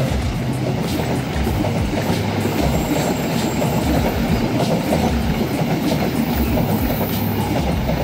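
Passenger coaches of a diesel-hauled train rolling past at close range, a loud steady rumble with the wheels clacking repeatedly over the rail joints.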